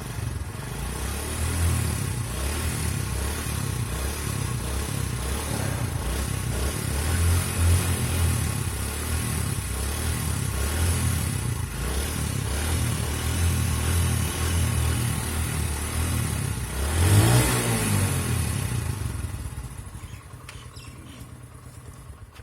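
Motorcycle engine running steadily, swelling loudly for a moment about seventeen seconds in, then fading away over the last few seconds.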